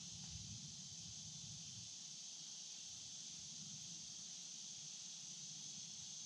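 Faint, steady high-pitched chorus of insects such as crickets, over the low, uneven sound of a flowing stream.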